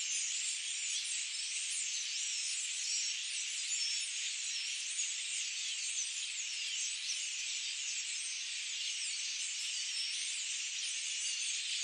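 A dense chorus of many small birds chirping and twittering at once, continuous and high-pitched, with no low sounds beneath it.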